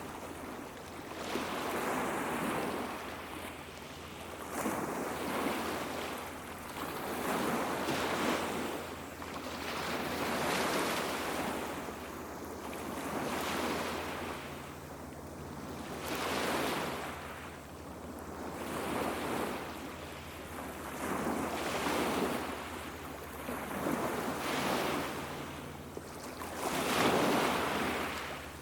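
Small sea waves washing onto a beach one after another. Each wave swells to a rush and fades, about every two and a half to three seconds.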